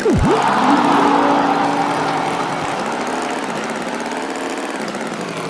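Cartoon tractor engine sound effect: it starts loudly with a quick pitch swoop down and back up, then settles into a steady running hum that slowly fades a little.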